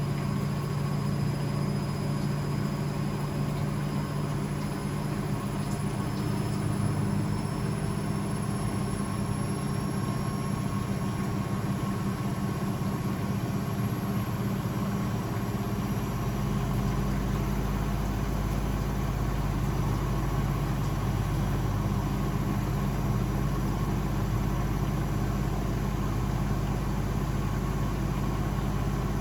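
Blomberg WAF 7442 SL washing machine running with a steady low hum and rumble. A faint high whine slowly rises in pitch over the first half, and the deep hum settles to a steadier drone about halfway through.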